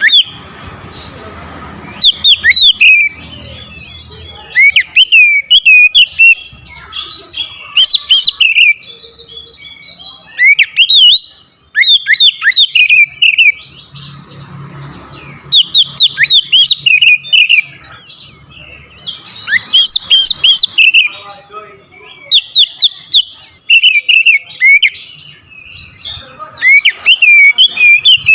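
Oriental magpie-robin (kacer) singing hard: loud, rapid phrases of sharp sweeping chirps and whistles, given in bursts one to two seconds long with short pauses between.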